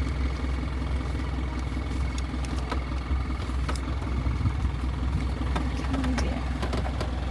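Game-drive vehicle's engine running with a steady low rumble, plus a few light clicks and rattles.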